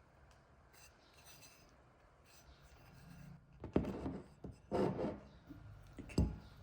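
Objects being handled, with faint rubbing and then three louder rasping scrapes or knocks in the second half.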